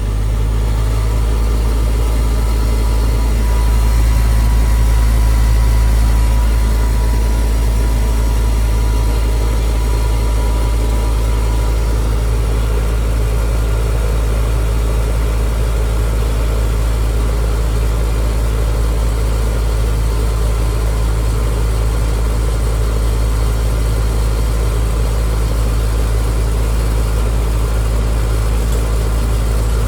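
Air conditioner outdoor condensing unit running steadily, its compressor and fan giving a loud, even hum. It is pumping the system's refrigerant down into the condenser while the suction gauge falls toward zero.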